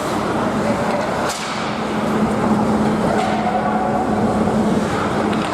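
Ice hockey play: sharp clacks of sticks on the puck, one about a second in and a weaker one around three seconds, over a steady low hum and a noisy rink haze.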